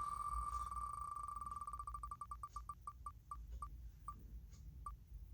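Spinning letter wheel ticking as it turns, the ticks so fast at first that they run together into one steady high tone, then slowing and spacing out until the last tick near the end as the wheel stops on a letter.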